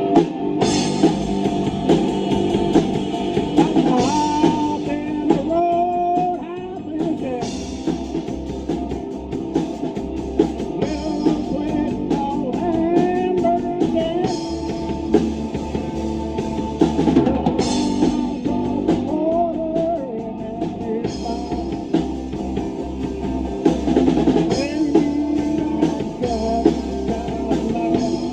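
Rock band playing a song live: a drum kit keeping the beat over electric guitar and bass.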